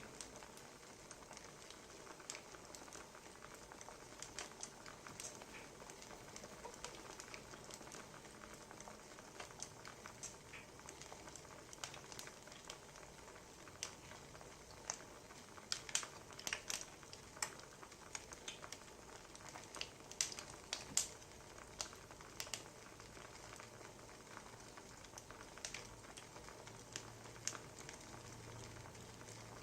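Wood fire crackling: a steady low hiss with irregular sharp pops and snaps, bunched more thickly around the middle.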